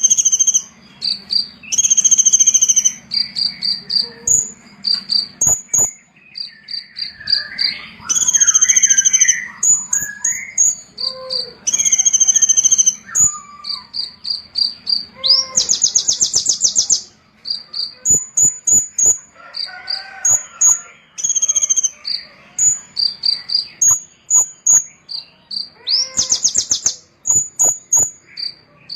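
Small songbird singing a varied run of high-pitched chirps and fast trills, with two long buzzy rattles about halfway through and near the end.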